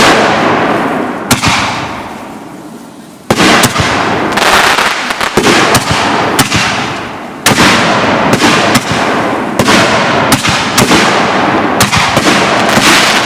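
Fireworks going off: a sharp bang at the start and another about a second later, each trailing off, then from about three seconds in a dense, loud run of bangs and crackling that jumps up again around seven seconds and keeps going.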